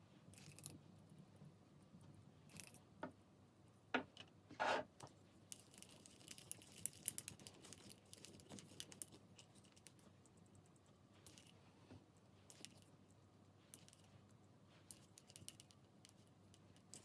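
Faint, scattered clicks, taps and light rustling of small craft items being handled at a work table, with a quick run of little clicks about a third of the way through and a louder knock shortly before it.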